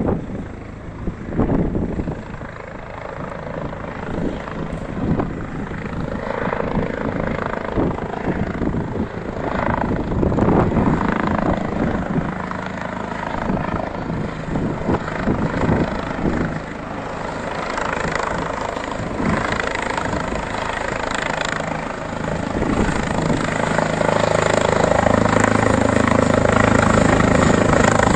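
Rega rescue helicopter flying in, its rotor and turbine engines steadily running and growing louder over the last few seconds as it comes closer.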